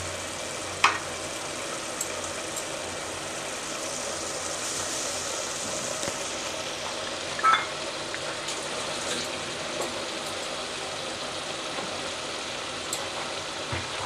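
Onion-tomato masala with ginger-garlic paste frying in oil, a steady sizzle. Two sharp clinks cut through it, one about a second in and another about halfway.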